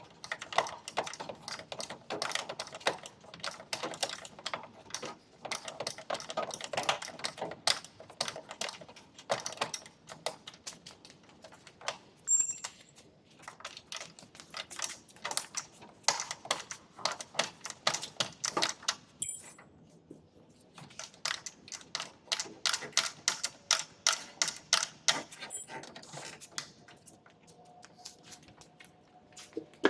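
Rapid light hammer taps on the sheet metal of a truck cab panel, several a second, in runs with short pauses between them, as the panel is worked.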